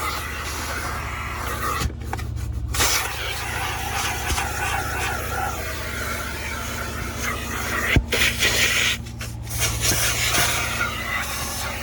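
Carpet extraction machine's vacuum motor running steadily while its upholstery tool is drawn over water-soaked car carpet, with the hiss of air and water being sucked through the tool. The suction hiss cuts out briefly twice, about two seconds in and again near eight seconds.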